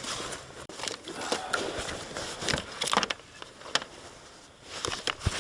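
Handling noises: scattered irregular clicks, knocks and rustling, as of someone moving about and handling gear.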